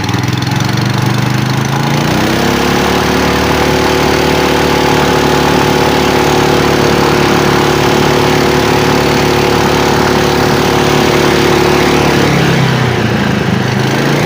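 Buran snowmobile with a Lifan KP500E engine driving off, not at full throttle. The engine note rises about two seconds in and holds steady, then dips briefly near the end and picks up again.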